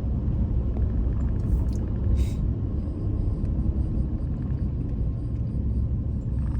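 Pickup truck's engine running, a steady low rumble heard from inside the cab.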